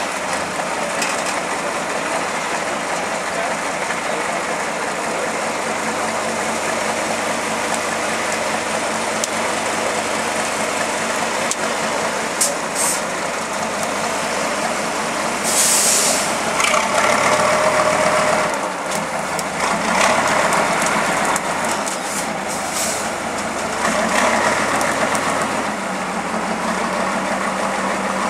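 Heavy trial truck's diesel engine running and revving, with a loud hiss of released air about halfway through.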